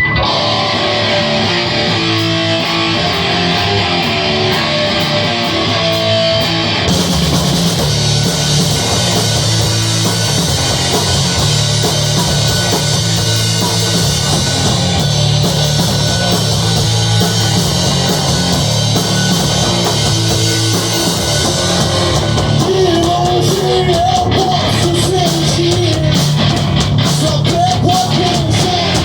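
Rock band playing live in a rehearsal: a guitar-led opening, then the full band with bass and drums comes in about seven seconds in, and a singer joins at about twenty-two seconds.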